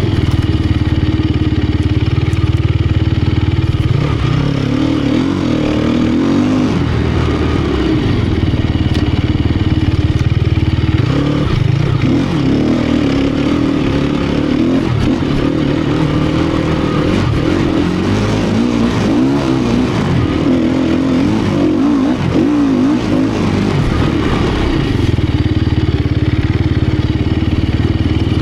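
Sherco 250 SEF Factory four-stroke single-cylinder enduro bike engine running under constantly changing throttle, its pitch rising and falling as it is ridden.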